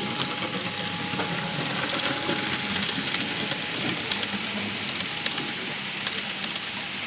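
Model train running along a layout's track, giving a steady rushing hiss with rapid, irregular clicking from wheels on the rails.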